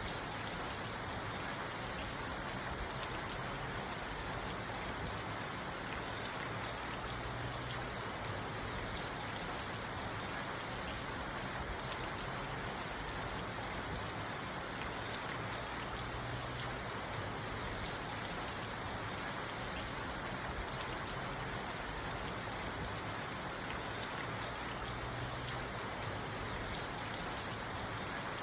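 Steady rain drumming on a car's roof and windows, heard from inside the car: an even hiss with fine drop ticks throughout.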